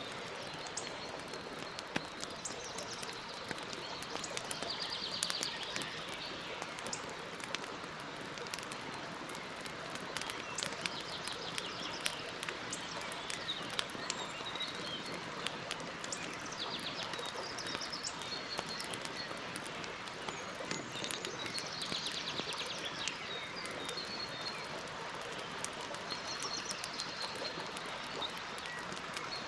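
Campfire burning with a steady hiss and frequent sharp crackles and pops, while small birds give short trilling calls several times in the background.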